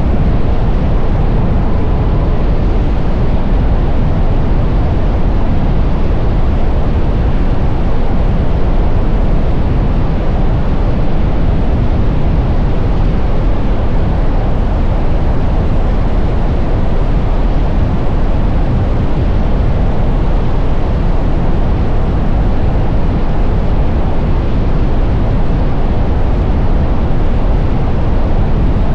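Steady, loud rush of wind buffeting the camera microphone, with road noise, while riding an electric motorcycle.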